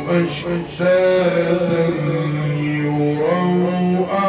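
A man reciting the Quran in a slow melodic chant, stretching each word into long held notes, with the pitch wavering in ornamented turns near the end.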